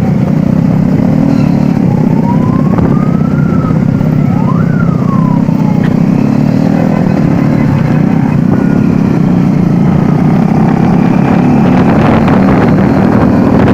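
Motorcycle engines running loud and steady, with a few rising and falling pitch glides over the rumble in the first half.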